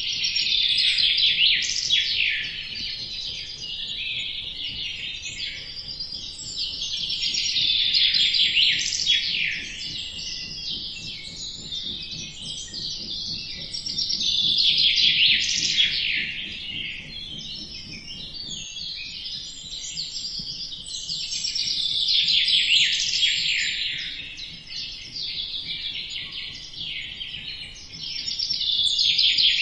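A chorus of small birds chirping and twittering densely, swelling louder about every seven seconds and easing between.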